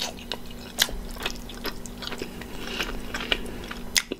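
Close-up biting and chewing of a slice of cauliflower-and-mozzarella crust pizza: wet mouth clicks and smacks, sharpest about a second in and again near the end.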